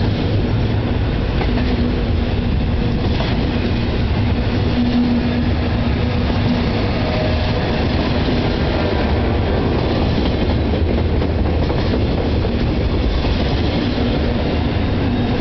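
CSX intermodal freight train's flatcars loaded with semi-trailers rolling past: a steady, loud rumble of steel wheels on the rails, with a faint low hum coming and going.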